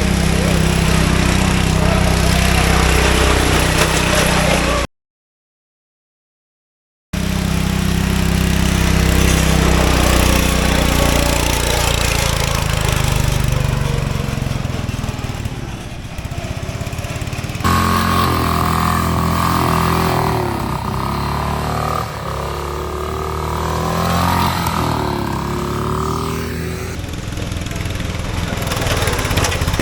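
Small lawn mower engines running and revving, their pitch wavering up and down as they are throttled. Near the start the sound drops out completely for about two seconds.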